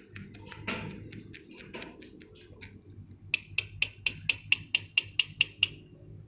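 A small bird giving a rapid series of short, sharp chirps. They are fainter at first, then a louder, evenly spaced run of about a dozen comes at roughly five a second before stopping near the end.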